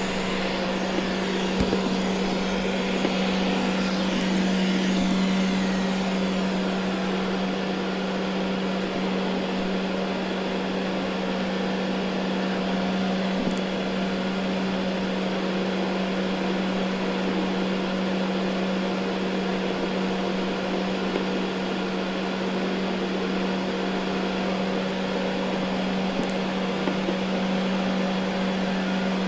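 Ecovacs Deebot N79 robot vacuum running over carpet: a steady motor and suction drone with a strong low hum, with a faint tick around the middle and another near the end.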